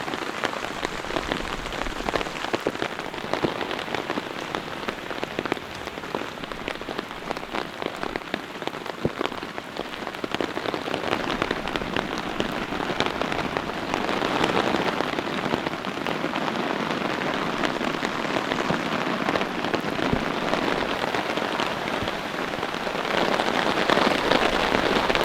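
Heavy rain pouring onto a tarp shelter: a loud, dense patter of drops that swells about halfway through and again near the end.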